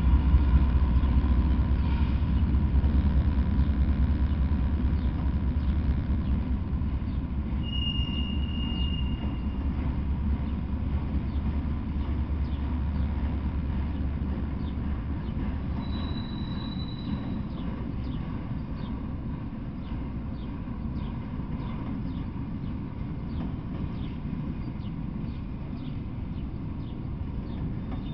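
Freight train of autorack cars rolling past, a continuous rumble of steel wheels on rail. A deep low drone drops away about halfway through and the rumble slowly fades. Two brief high squeals come through, and a light rhythmic clicking shows up toward the end.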